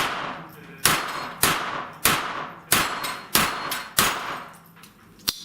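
A string of rapid gunshots at steel plate targets, roughly one every half second, each shot followed by the ringing clang of hit steel. The string slows and ends about five seconds in.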